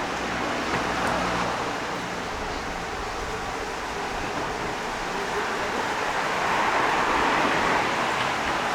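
Outdoor city street ambience: a steady rushing noise of traffic, with a faint low engine hum in the first few seconds and a swell near the end like a vehicle passing.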